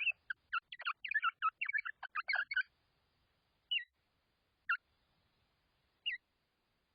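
Birds chattering in a fast run of short chirps for the first two and a half seconds or so, then three single short calls spaced about a second apart.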